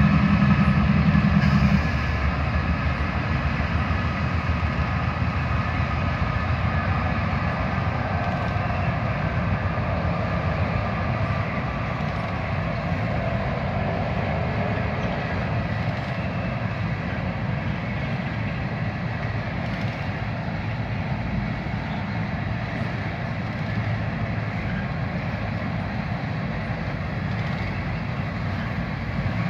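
Freight train pulling away: the diesel drone of its GE locomotives drops off about two seconds in. It gives way to the steady rumble of covered hopper cars rolling past on steel rails, slowly fading.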